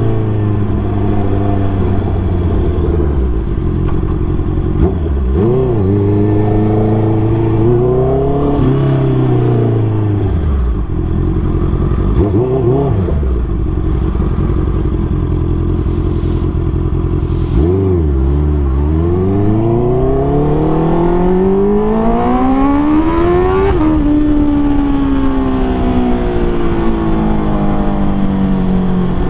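2019 Honda CBR650R's inline-four engine, running through a MIVV MK3 full exhaust system, on the move. The revs dip and climb several times, then make one long climb about two-thirds of the way through before falling away.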